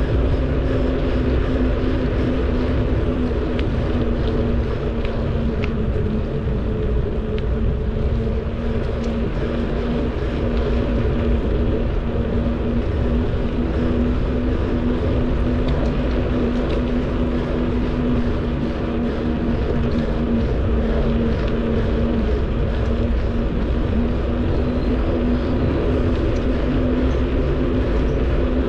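Wind rushing over the microphone and road noise while riding a bicycle, with a steady low hum.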